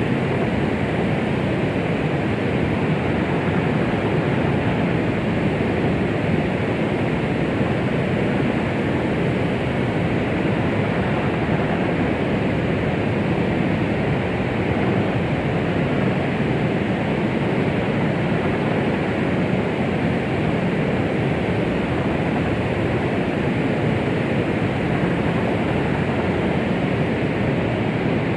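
Steady artificial white noise: an even, dull rushing hiss, fuller in the low and middle range with little treble, so closer to pink noise. It never changes and has no beat.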